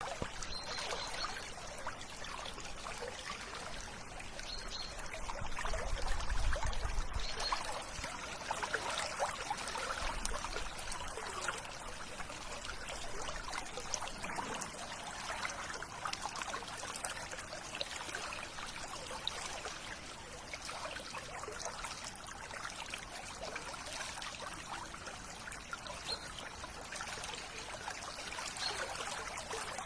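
River water trickling and babbling steadily, with a few faint, short, high bird chirps. A brief low rumble comes about six seconds in.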